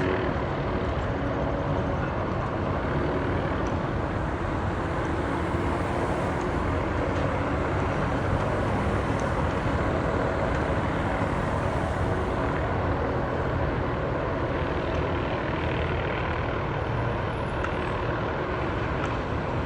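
MD 500 helicopter running steadily: the turboshaft engine's rush mixed with the rotor noise, at an even level throughout.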